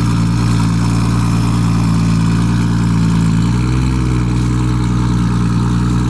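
Turbocharged 2JZ inline-six engine idling loudly through a 4-inch exhaust stuffed with about fifteen cheap exhaust turbo-whistle inserts. The idle note is steady and shifts slightly about three and a half seconds in.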